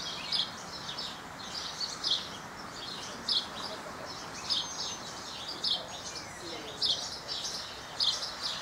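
Songbirds singing: short bright chirping phrases repeating roughly once a second, over steady outdoor background noise.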